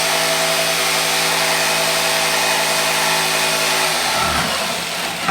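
Electric jigsaw running at a steady pitch while cutting skirting board, then switched off about four seconds in, its motor winding down and stopping.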